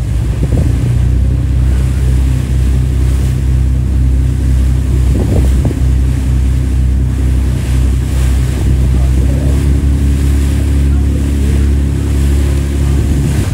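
Tour boat's engine running steadily, a deep continuous hum, with wind buffeting the microphone and water rushing past the hull.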